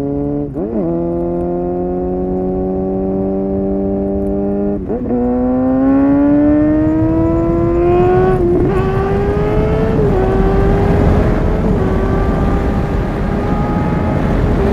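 Suzuki GSX-R 750 inline-four with a Yoshimura exhaust accelerating through the gears. The engine note climbs in each gear and drops back at each upshift, several times in a row.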